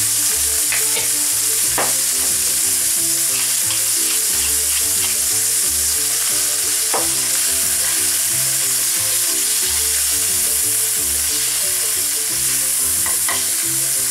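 Halved cherry tomatoes and garlic sizzling steadily as they fry in hot oil in a non-stick pan, stirred with a silicone spatula that knocks lightly against the pan a few times.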